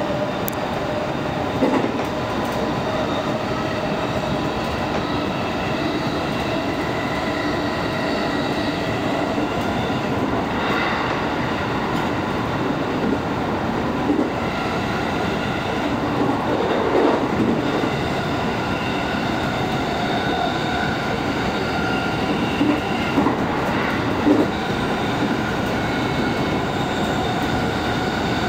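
Commuter train running at speed, heard from inside the passenger car: a steady rolling noise with faint steady tones and a few short knocks over the rails.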